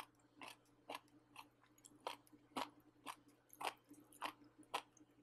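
A person chewing a mouthful of pork rib and bamboo shoots, picked up close by a clip-on mic: faint clicking chews at about two a second.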